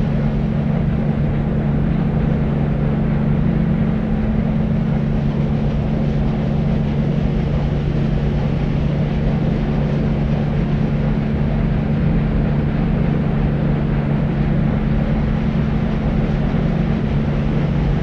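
Steady deep noise: an even, unchanging rumbling hiss with most of its weight in the bass and little treble, and a steady low hum running beneath it.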